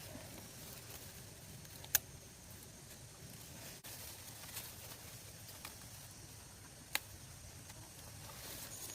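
Quiet outdoor background noise broken by two sharp clicks about five seconds apart, with a few fainter ticks between them.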